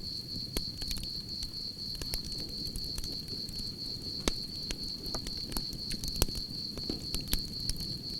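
Campfire crackling, with scattered sharp pops and a low rumble of burning wood, over a steady high-pitched chirring of crickets.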